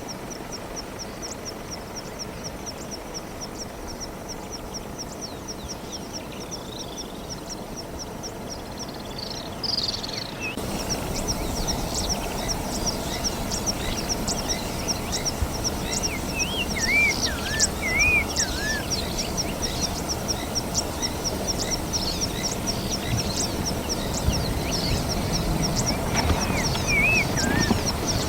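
Outdoor bush ambience: a high chirp repeating several times a second throughout, with a few separate bird calls in the middle and near the end, over a low rumble that steps up in loudness about ten seconds in.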